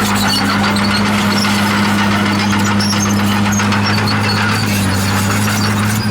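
Komatsu D51PX bulldozer's diesel engine running steadily under work, with scattered short high squeaks over it.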